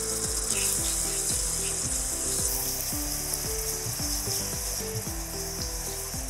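Sliced onions and whole spices sizzling steadily in hot oil in a non-stick pan, the sizzle growing louder about halfway through. Soft background music plays underneath.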